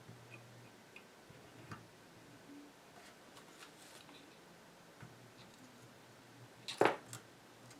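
Faint scattered clicks and taps of small tools and parts being handled on a workbench, with one sharper, louder click about seven seconds in, over a faint low hum.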